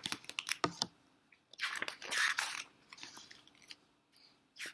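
Pages of a picture book being turned and handled close to the microphone: a few bursts of rustling and clicks.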